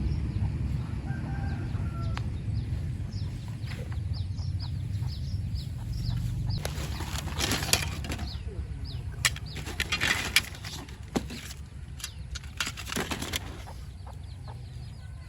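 Chickens and small birds calling, with many short falling chirps, over a steady low rumble. Several louder short rustling bursts come between about halfway and near the end.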